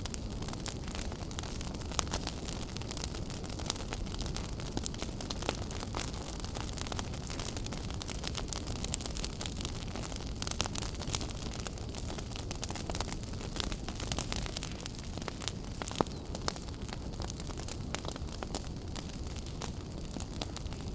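Wood fire burning in a fireplace: a steady low rumble of flames with irregular sharp crackles and pops throughout, a few louder snaps standing out.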